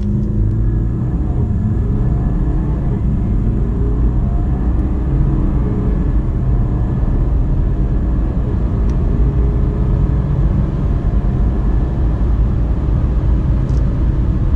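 A car engine accelerating hard from a standstill up through the gears past 100 km/h, heard from inside the car, its note rising over a steady low rumble of road and wind noise.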